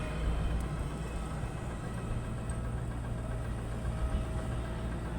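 Steady low engine-like hum running without a break.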